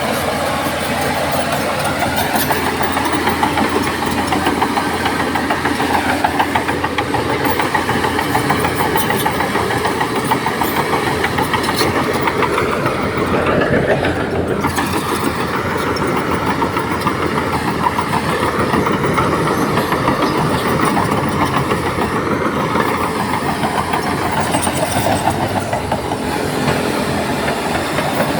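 Heavy diesel engine of earthmoving machinery running steadily with a rapid, even chugging. There is a brief swell in the sound about halfway through.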